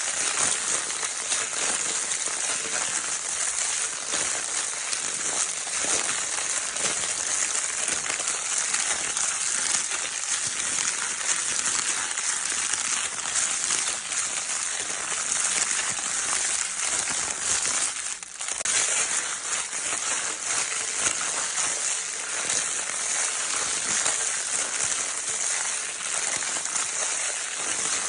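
Baby's crinkle paper toy being crinkled and rustled without pause: a dense, steady crackle used as white noise to soothe a crying baby, with a brief lull about 18 seconds in.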